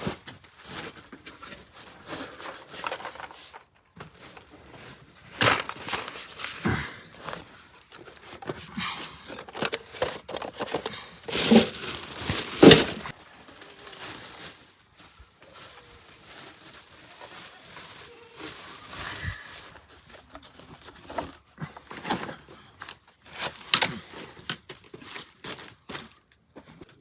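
Irregular rustling, crinkling and scattered knocks as things are handled and moved about, with a louder cluster of knocks about halfway through.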